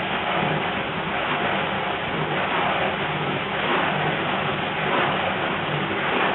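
1953 Thor Automagic washing machine running: a motor hum under a steady rush of churning water, with a low pulse about once a second.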